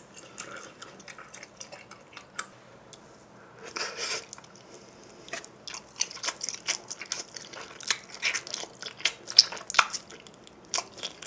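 Close-miked biting and chewing of a thick-crusted cheese pizza slice: a dense run of short, sharp mouth clicks and smacks, thickest in the second half, with a brief rushing sound about four seconds in.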